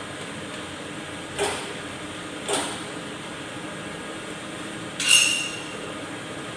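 Three sharp knocks over a steady hum, the last and loudest a clink with a short ringing tone.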